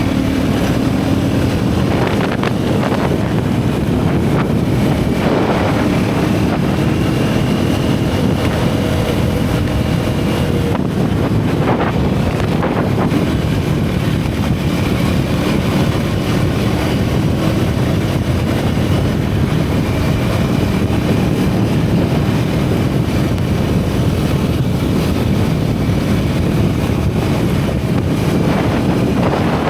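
Single-cylinder motorcycle engine running under changing throttle, its exhaust pitch drifting up and down, heavily mixed with wind rushing over the camera microphone at riding speed.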